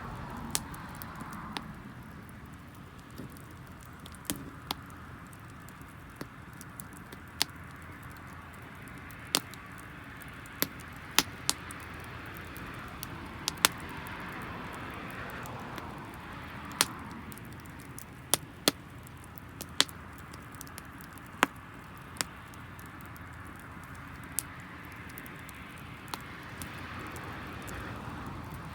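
Wood campfire burning with a steady hiss of flames, the firewood giving sharp, irregular pops and snaps every second or two.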